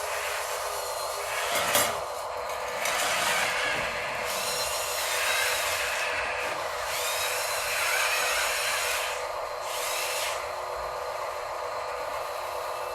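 Electric motors and gearboxes of a radio-controlled construction model whining steadily, with several surges of higher-pitched whirring that rise and fall as it is driven, and a single knock about two seconds in.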